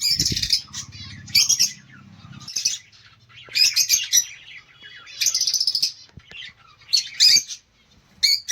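Small cage birds chirping in short, high bursts about once a second. A brief low thump comes right at the start.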